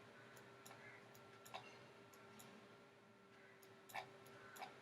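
Near silence broken by a few faint computer mouse clicks, the clearest about one and a half seconds in and near the end, over a faint steady hum.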